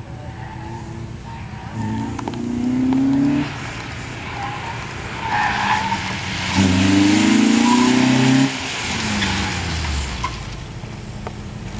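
Twin-turbo Peugeot 106 16v engine revving hard, pulling up in pitch about two seconds in and again past the middle, with tyres squealing and skidding as the car slides.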